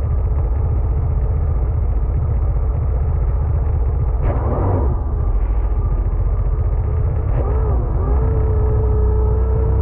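Sea-Doo jet ski engine running under way, a dense, steady low rumble. A brief louder burst of shifting pitch comes about four seconds in. The engine note wavers around seven seconds in, then holds one steady tone.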